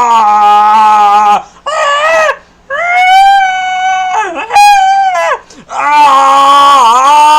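A goat-like bleating scream comes in a run of long, high-pitched, wavering calls, about five or six of them, broken by short gaps. It stands in for Vegeta's dying scream as he self-destructs.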